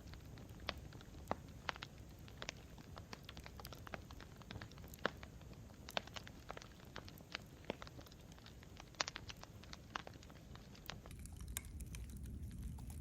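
Campfire crackling: irregular sharp pops and snaps over a low steady rumble. Near the end the rumble grows louder and the pops thin out.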